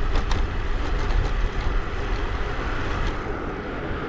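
Wind rumbling on a chest-mounted GoPro's microphone while cycling, with tyre and road noise, steady throughout and a few light clicks near the start.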